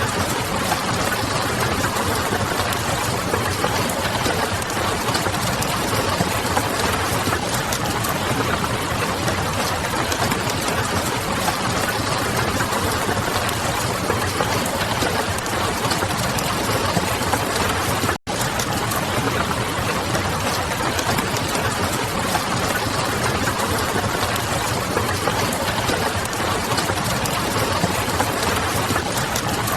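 Ambience mix of steady rain and crackling wood fire over a low, steady hum. The sound cuts out for an instant a little past the middle, then carries on unchanged.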